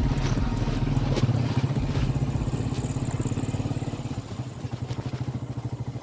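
An engine running with a rapid, even chugging beat that slowly fades.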